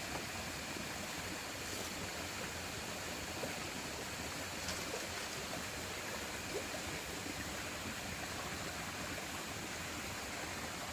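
Steady, even rushing noise with a few faint ticks scattered through it.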